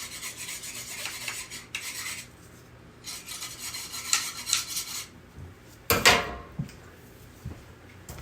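Skinning knife being honed on a sharpening steel: two runs of quick scraping strokes of the blade along the steel, then one sharp, louder metallic clank about six seconds in.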